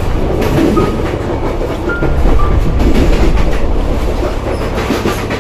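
Railway carriage running on the track, heard from inside: a steady, loud rumble of the wheels with clicks and a few short, high squeaks.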